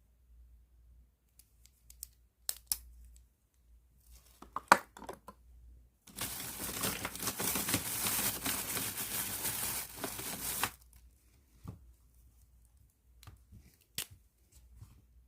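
Plastic bag being handled around a pen: scattered clicks and taps, then about four seconds of continuous loud crinkling and rustling of the plastic, then a few more taps near the end.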